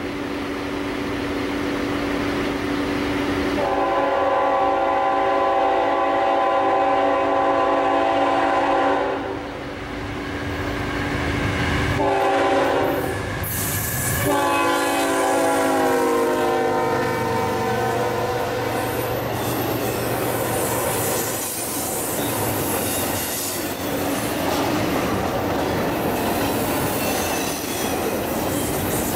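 Norfolk Southern freight train's diesel locomotive sounding its multi-chime air horn in two long blasts. The second blast drops in pitch as the locomotive passes. Then the intermodal train rolls by, with engines and steel wheels rumbling and clicking over the rail joints.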